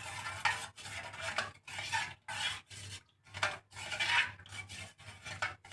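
A bird-seed mix of millet, foxtail millet and black glutinous rice being stirred and scraped in a pan while dry-roasting, in short rasping strokes about two a second.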